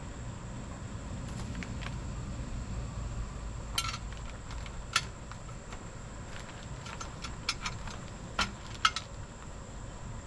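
Hand tools and metal parts clinking during motorcycle exhaust work: a handful of sharp metallic clicks at irregular intervals, most of them in the second half, over a steady low background hum.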